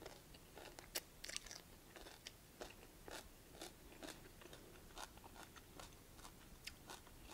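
Faint crunching and irregular soft clicks of a person chewing a mouthful of stir-fried kohlrabi noodles and kohlrabi leaves.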